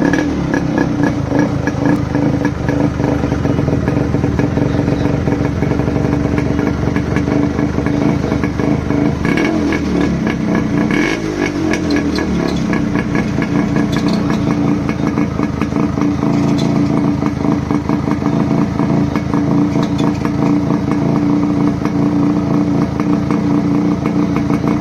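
Yamaha RX100's two-stroke single-cylinder engine running steadily, with a brief drop and rise in engine speed about ten to twelve seconds in. By the owner's account, rainwater has got into its gearbox and bearings.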